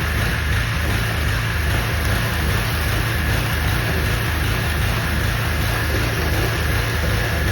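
Gas-powered pressure washer running steadily: a low engine drone under an even spray hiss.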